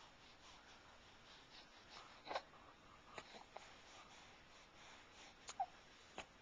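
Near silence in a small room, broken by a few faint clicks and one short, high squeak about five and a half seconds in.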